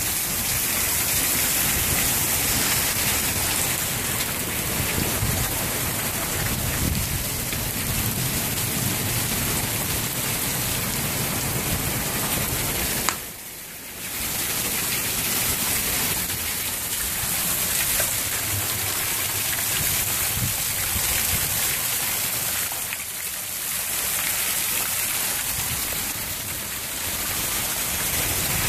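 Heavy rain falling steadily on a garden, plants and paving. The sound drops away abruptly for about a second near the middle, then returns.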